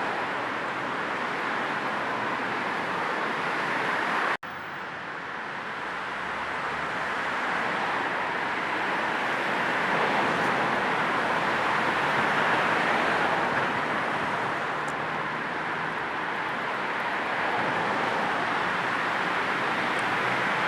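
Steady road noise of a moving car, an even hiss mixed with low white noise. It cuts out for an instant about four seconds in, then carries on slightly quieter.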